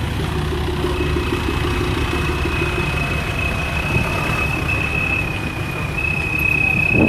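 Vehicle engine idling, a steady low rumble, with a thin steady high whine joining about a second in.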